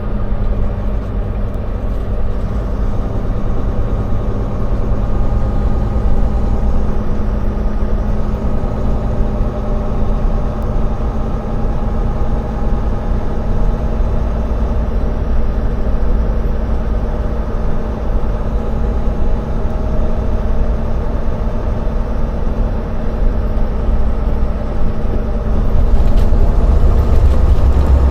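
Semi-truck tractor driving, heard from inside the cab: steady engine drone and road noise with a constant hum, getting a little louder near the end.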